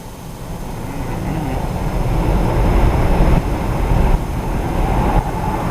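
Road and engine noise of a moving car: a steady low rumble that grows louder over the first couple of seconds.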